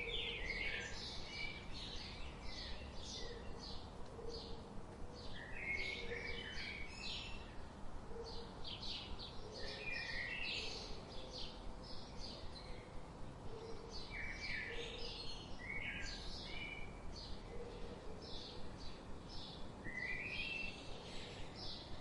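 Birdsong: several birds chirping and trilling at once in quick, overlapping short notes, with soft lower notes underneath.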